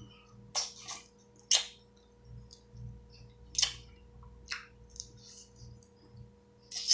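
Close-up eating sounds: a handful of sharp, wet mouth clicks and smacks at irregular intervals, from chewing leftover crab and shrimp.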